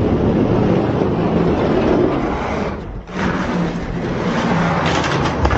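Diecast toy monster trucks rolling fast down a plastic racing track, a steady rattling rumble. It dips briefly about three seconds in, then picks up again, with a few clicks near the end.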